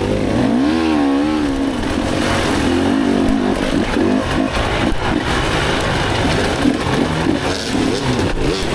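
Dirt bike engine revving, its pitch rising and falling continually as the throttle is worked, with a few brief knocks over it.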